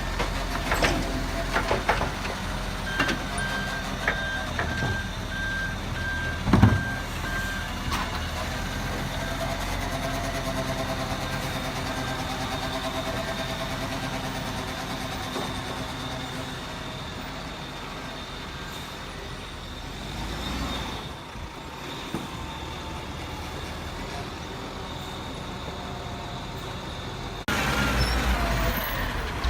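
Garbage truck running with its reversing alarm beeping at a steady rate for several seconds before fading away. There are a few knocks, and a loud thump about six seconds in. The sound changes abruptly near the end.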